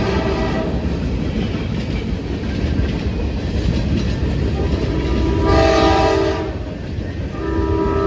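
Locomotive's multi-chime horn sounding over the steady rumble of a moving train: a horn note that cuts off just after the start, a blast of about a second past the middle, and another that begins near the end.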